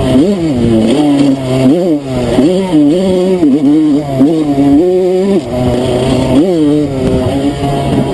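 Enduro motorcycle engine revving up and down in quick throttle bursts as it is ridden off-road, the pitch rising and dropping about once a second, with a steadier held stretch in the middle.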